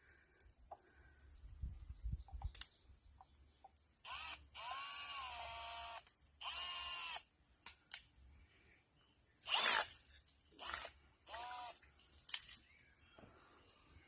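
Cordless drill spinning a drill-driven water pump in short bursts as the trigger is squeezed and released: each burst rises in pitch and then holds a steady whine, the longest lasting about a second and a half, with several shorter ones later.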